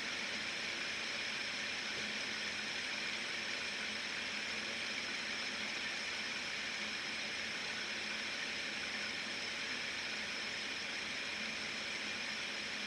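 Steady, even hiss with no change in level or pitch.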